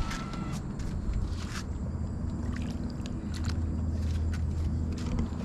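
A small boat's motor running steadily at low speed, a low hum, with scattered light clicks and knocks on board.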